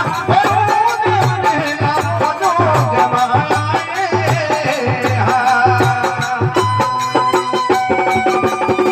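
Rajasthani folk bhajan music without singing: a regular drum beat with jingling rattle-like percussion under a wavering melodic lead, which turns to steady held notes about five seconds in.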